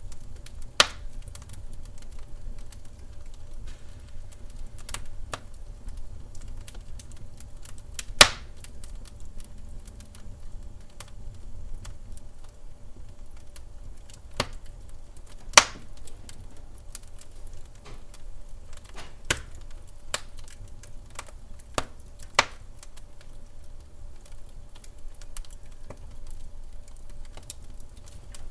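Wood fire burning in a fireplace: scattered crackles and pops, with a few louder snaps, over a low steady rumble.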